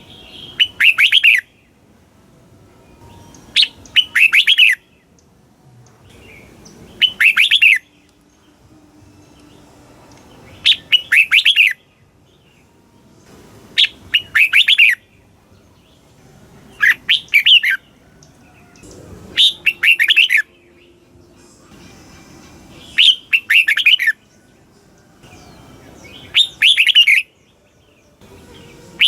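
Red-whiskered bulbul song: a short phrase of quick, loud whistled notes, repeated about every three seconds, nine times over.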